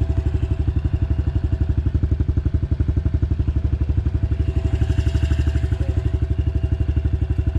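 Dirt bike engine idling steadily with an even, rapid putter.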